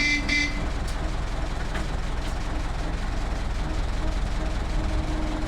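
Ruston 48 narrow-gauge diesel locomotive running steadily while shunting, a low engine sound, its gearbox nearly silent. Two short high-pitched blips right at the start.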